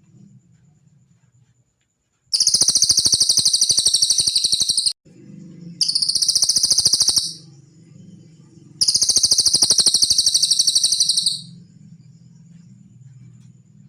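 Cililin bird song: three long, rapid, high-pitched trills, the first and last about two and a half seconds each and the middle one shorter. A faint low hum runs between them.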